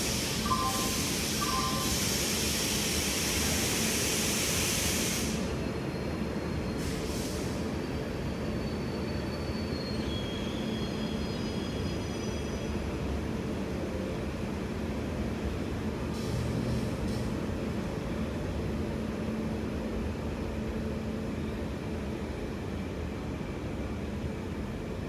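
Sampoorna Kranti Express passenger train running on the rails with a steady rumble. A loud hiss lasts about the first five seconds, and a faint high wheel squeal comes and goes around ten seconds in.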